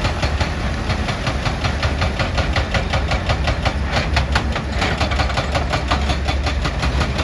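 Heavy machinery engine running steadily, with a low rumble and a fast, even knocking of about six or seven beats a second.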